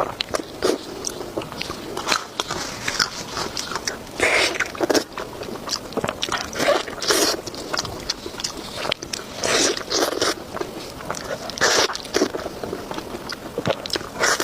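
Close-up bites and crunchy chewing of beef knee-joint cartilage, in irregular crunches every half second to a second, some much louder than others.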